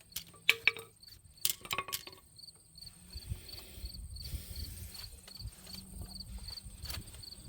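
An insect chirping steadily, about three short chirps a second. A few sharp knocks come in the first two seconds, and a low rumble joins from about halfway in.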